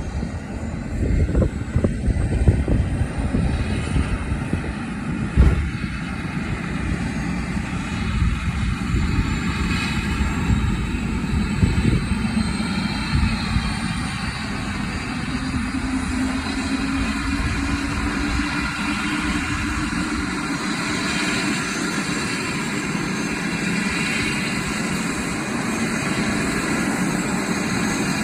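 Helicopter running up and taking off, its turbine whine slowly rising in pitch. For the first twenty seconds there is a heavy low rumble with repeated thumps, and from about halfway a lower hum also rises in pitch.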